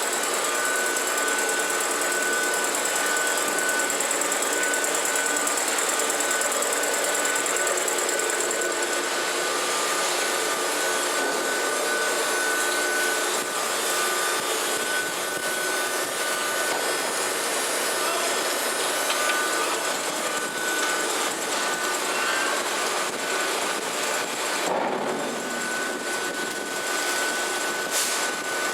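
Peanut mill machinery running steadily: a dense mechanical noise with a constant high whine over it.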